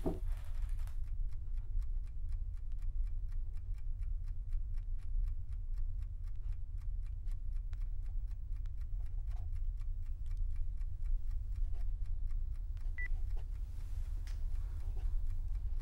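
Fast, even clock-like ticking over a steady low drone, with a single short high beep about thirteen seconds in.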